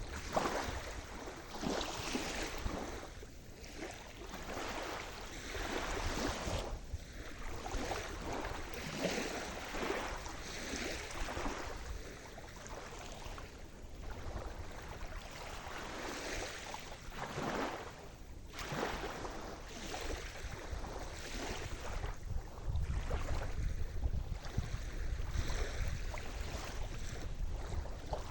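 Sea surf: waves washing and breaking in a continuous noisy wash that swells and ebbs every few seconds. A stronger low rumble joins about two-thirds of the way through.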